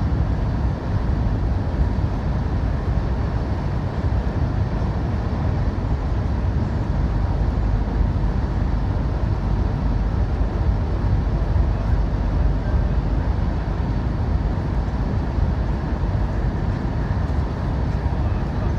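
CRH6A electric multiple unit running along the line, heard from on board as a steady low noise that neither rises nor breaks.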